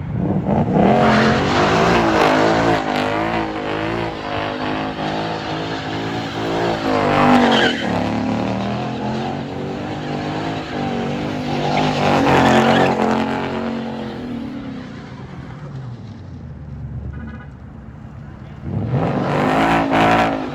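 Chevrolet Camaro's engine revving hard in repeated rising and falling surges, with its tires squealing as it is swung around in a drift. The revs drop to a lull for a couple of seconds near the end, then climb again.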